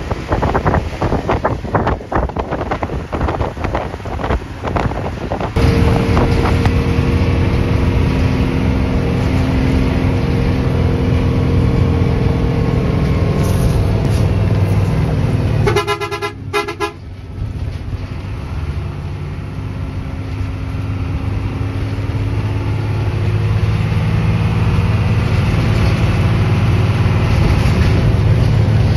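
Hino 1J bus running on the road with a steady engine drone. About two-thirds of the way in a horn sounds in a rapid series of short blasts, and then the engine builds up again. For the first few seconds the sound is a rough, buffeting noise before the drone comes in clearly.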